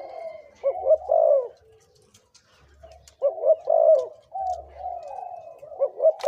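Spotted dove cooing: repeated phrases of rolling coo notes, with three loud phrases about two and a half seconds apart and softer cooing between them. This is a male decoy bird giving its calling song to draw in wild doves.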